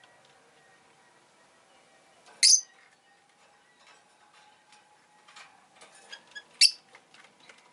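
Rosy-faced lovebird giving two short, sharp, high-pitched chirps about four seconds apart, with faint ticking in between.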